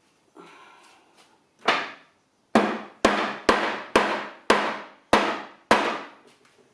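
A cloth-wrapped rubber mallet strikes a table about eight times, roughly two blows a second, after a brief soft rustle. The blows are knocking the wobbly table's loose top and base back together to close a gap between them.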